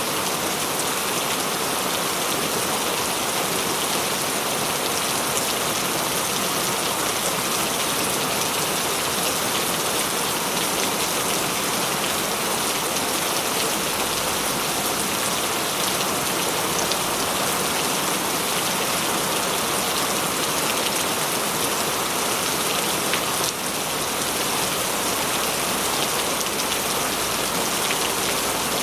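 Steady tropical rain falling, a dense, even patter of drops with no let-up.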